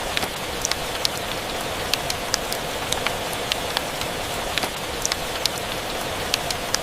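Steady rain, a continuous hiss with frequent irregular sharp ticks and pops scattered through it.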